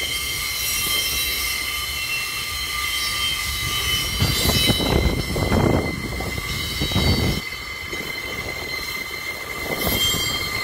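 Loaded gypsum hopper wagons rolling slowly past, with a steady high-pitched squeal from the wheels over a clanking rumble. The rumble and clanking grow loudest about four seconds in, drop back near seven and a half seconds, and swell briefly again near the end.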